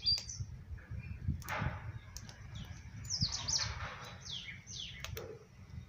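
Small birds chirping: quick runs of short falling high notes just after the start and again around the middle, with a few soft clicks in between.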